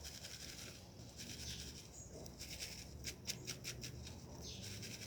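Faint paper rustling as slips are handled, with a quick run of crisp crackles around the middle.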